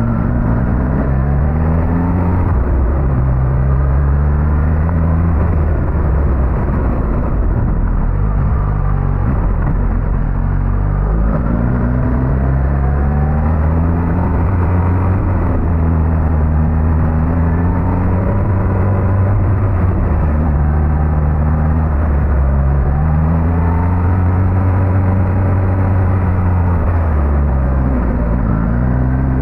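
Suzuki GSX-S1000GT's inline-four engine running on the move, its pitch climbing and dropping several times with the throttle.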